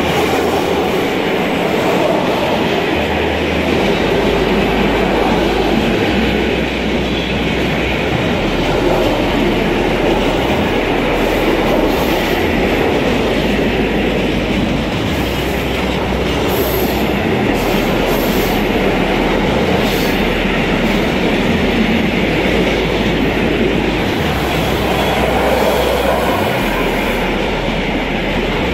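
Freight train of hopper wagons rolling past at close range: a loud, steady rumble of steel wheels on the rails. A few brief, faint high squeals come through around the middle.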